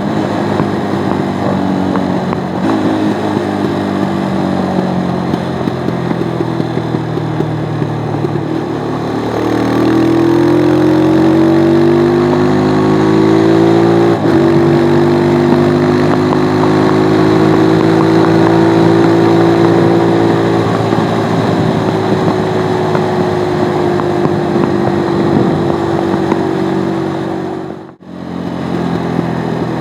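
Stels Flex 250 motorcycle engine and exhaust at riding speed. It runs steadily, then accelerates with rising pitch, shifts gear about a third of the way in, holds a higher steady note and slowly eases off. The sound briefly cuts out near the end.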